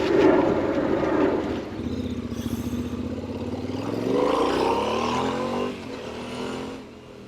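Yamaha Ténéré 700's parallel-twin engine pulling away and accelerating, its pitch rising steadily for a few seconds before it eases off near the end.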